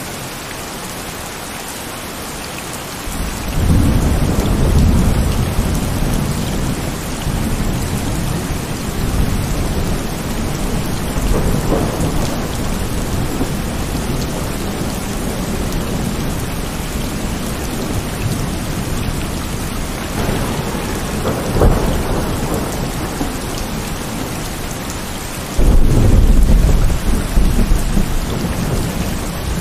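Heavy rain falling steadily, with thunder: a deep rumble breaks in about three seconds in and slowly fades, another swells twice in the middle, and a second loud clap comes near the end.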